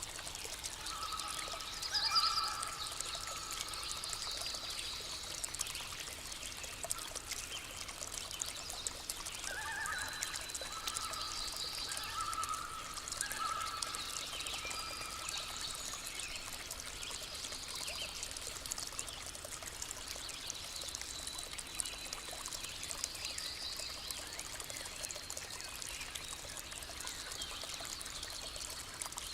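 A small stream trickling and splashing steadily, with bird calls coming in about two seconds in and again around ten to fourteen seconds in.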